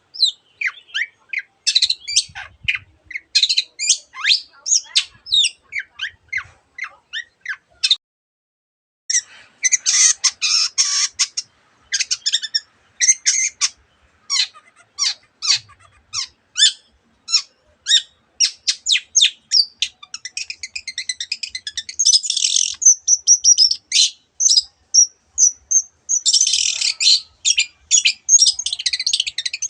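Long-tailed shrike (cendet) singing a fast, varied song of rapid chirps and harsh raspy bursts that imitate other birds, with a short pause about eight seconds in and a run of clear whistled notes around twenty-three seconds in.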